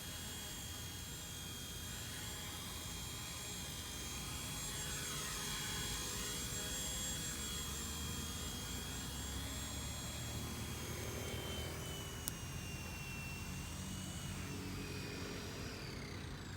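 XK K124 brushless RC helicopter in flight: a steady high-pitched electric motor and rotor whine, whose pitch falls away near the end as the motor spools down.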